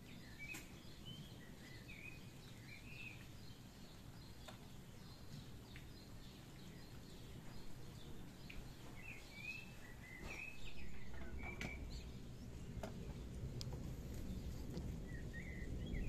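Birds singing in short chirping phrases, in three spells, over a steady low background rumble.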